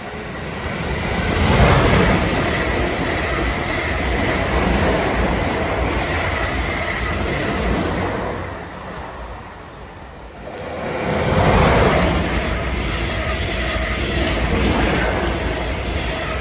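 South Western Railway electric multiple-unit train passing at speed close to the platform: a steady rush of wheels on rail that builds up, holds, dips for a moment about nine seconds in, then swells again and stays loud.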